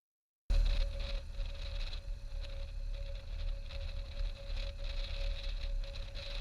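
Steady running noise of a moving vehicle: a heavy low rumble with a constant hum over it. It starts abruptly about half a second in and holds an even pitch with no revving.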